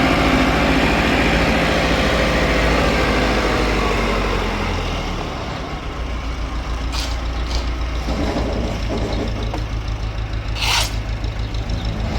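Tractor engine running steadily, its pitch dropping a few seconds in, then holding. Short bursts of hiss come about two-thirds of the way through and again near the end.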